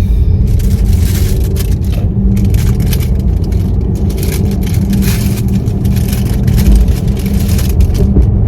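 Car driving: steady low road and engine rumble heard from inside the cabin.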